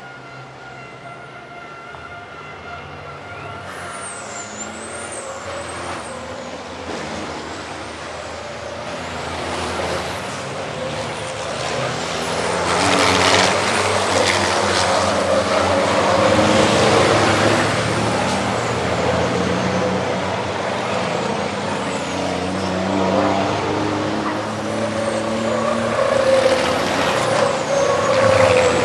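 Racing trucks' diesel engines on track, growing steadily louder over the first dozen seconds as they close in, then staying loud with engine pitch rising and falling as they accelerate and ease off.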